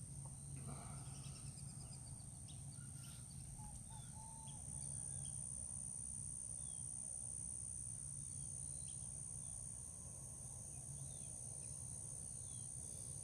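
Outdoor ambience of a steady, high-pitched insect drone, with scattered short bird chirps over a low background rumble.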